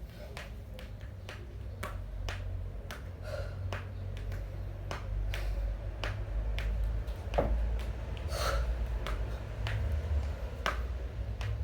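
A kettlebell lifter's sharp, forceful breaths about every five seconds, over a steady low rumble with scattered sharp clicks.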